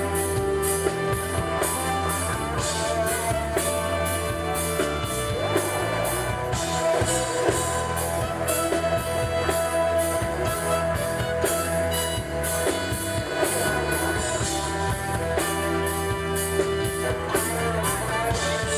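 Live band playing an instrumental passage with drum kit and guitar at a steady dance beat, without vocals.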